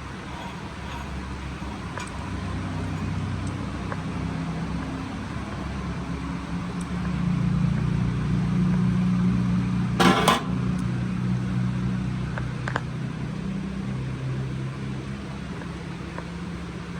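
A vehicle engine running, its low drone swelling from about seven seconds in and easing again after about twelve seconds. About ten seconds in there is a sharp, loud clatter.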